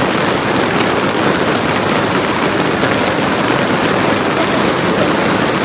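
Steady heavy rain falling, an even hiss with faint patter of drops.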